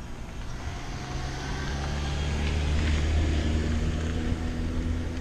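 A car engine running with a low steady hum that grows louder over the first three seconds and then holds, over a hiss of wind and tyre noise.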